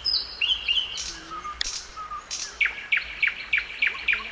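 Nightingale singing: short whistled phrases, then from a little past halfway a fast run of repeated down-slurred notes, about three a second.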